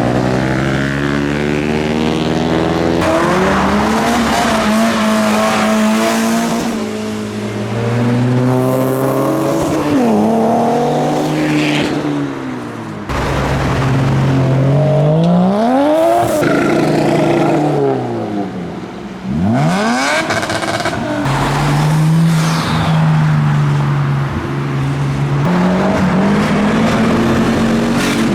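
Several modified cars drive past one after another, their engines revving up and easing off, the engine notes rising and falling in pitch as each one passes.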